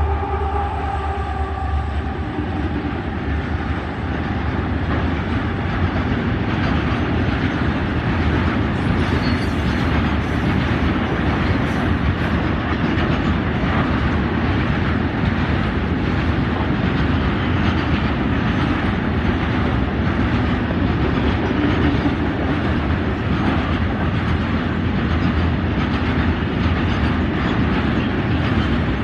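Long petroleum tank-wagon freight train rolling past: a steady rumble of wheels on rail with a rapid clickety-clack over the rail joints. A horn's tones die away in the first second or two.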